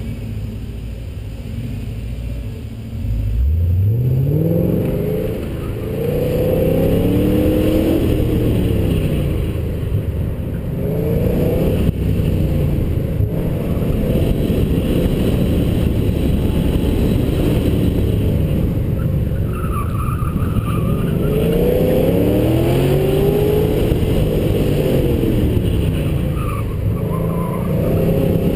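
2006 Pontiac GTO's 6.0-litre LS2 V8 launching hard about three seconds in, then repeatedly revving up and falling back as the car accelerates and brakes between cones. A brief tyre squeal is heard about two-thirds of the way through.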